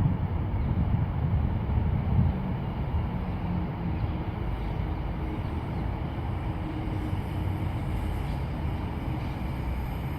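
Steady low rumbling outdoor noise, gustier in the first couple of seconds, then even.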